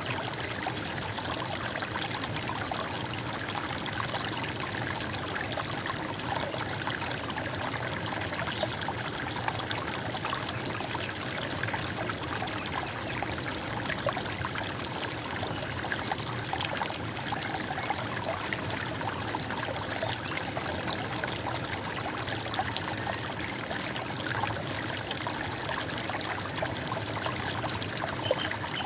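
Running water in a stream: a steady splashing and gurgling flow that does not change.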